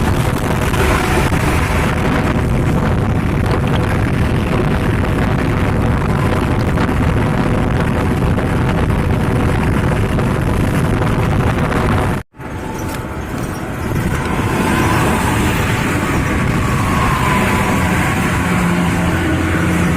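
Loud, steady engine and road noise from a heavy road vehicle on the move, with a bus or truck running alongside. It breaks off abruptly about twelve seconds in and picks up again straight after.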